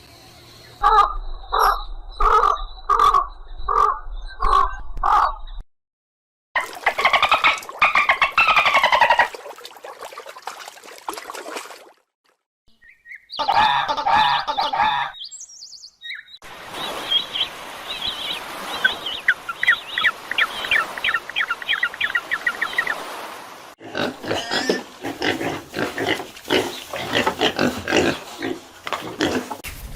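A string of different animal calls, one clip after another with short silent gaps. The first is a run of about seven evenly spaced calls, and a later one has a rapid trill of repeated notes.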